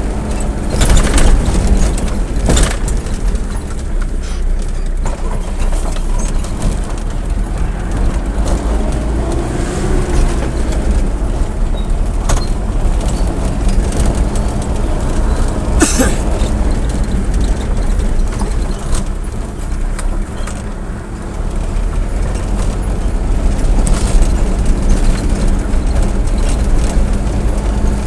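Motor vehicle driving along a road, heard from on board: a steady low engine and road rumble with a constant hum, and occasional rattles and knocks.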